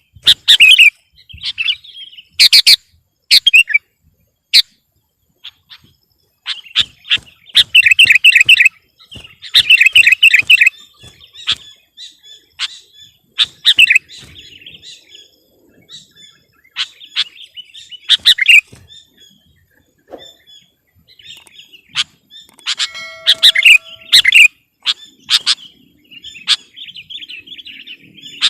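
Sooty-headed bulbul (kutilang) singing energetically: loud bursts of rapid chirps and trills, broken by short pauses between phrases.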